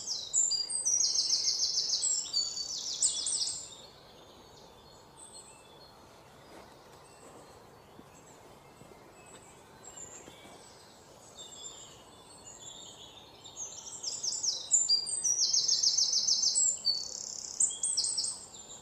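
Bird chirping in two bouts of rapid, high, repeated notes, each a few seconds long: one at the start and another from about two-thirds of the way through. Faint hiss fills the gap between them.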